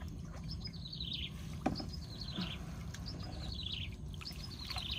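A bird singing a repeated phrase of quick high notes that fall in pitch, about once a second, over a steady low background rumble, with a single sharp click a little under two seconds in.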